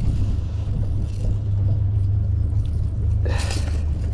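Boat engine running steadily at slow cruising speed, a deep low rumble, with a short noisy burst about three seconds in.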